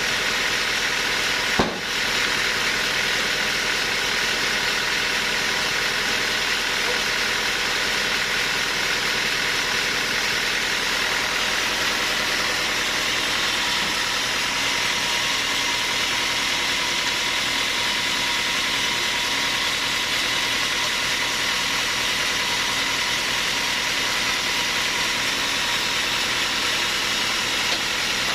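A machine's engine running steadily at an even pitch, with one sharp click and a brief dip about a second and a half in.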